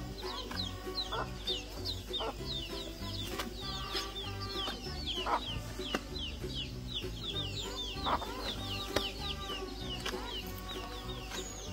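Birds chirping busily: many quick, high, falling chirps, several a second, over steady background music.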